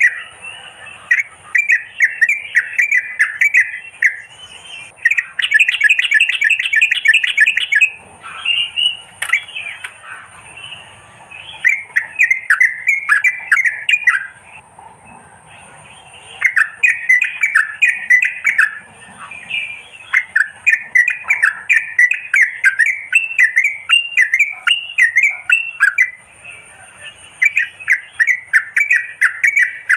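Merbah kapur bulbul calls played as a trapping lure: phrases of rapid, squawky chattering notes, repeated with short pauses between them, over a faint steady high whine.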